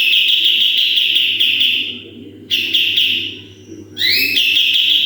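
Kapas tembak bulbul singing loudly in rapid, rattling trilled phrases, each opening with a quick upward sweep. Three phrases come close together: the first and last are about two seconds long, the middle one shorter.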